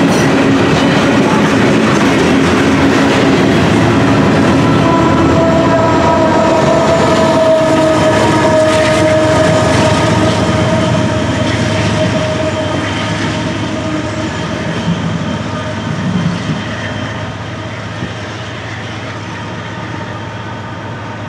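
Freight train of loaded steel-coil flatcars rolling past with a steady wheel-on-rail rumble and clatter. A locomotive at the rear of the train then passes with a steady whine that sinks slightly in pitch, and the sound dies away as the train moves off.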